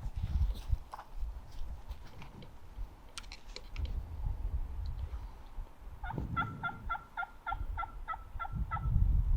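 A run of about a dozen evenly spaced turkey yelps, roughly four a second, starting about six seconds in and lasting nearly three seconds. Before them, only a low rumble and a few light clicks.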